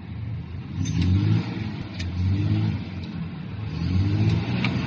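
Diesel engine running and being revved, its pitch rising and falling about three times, with a few sharp clicks.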